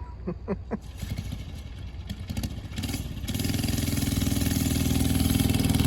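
Small engine of a vintage Ruttman minibike catching after a start, sputtering unevenly for a couple of seconds, then settling into a steady run about three seconds in and getting louder toward the end.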